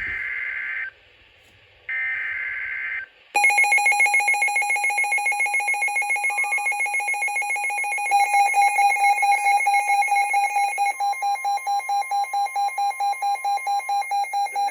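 Weather radio alert tones: two harsh one-second data bursts of the digital alert header, then a weather-alert receiver's alarm beeping rapidly and continuously, with extra tones joining about eight seconds in, signalling a warning.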